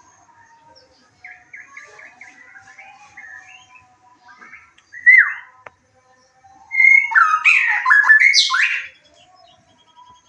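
White-rumped shama (murai batu) singing: faint scattered chirps, a short loud phrase about five seconds in, then a loud, varied run of whistled notes lasting about two seconds near the end.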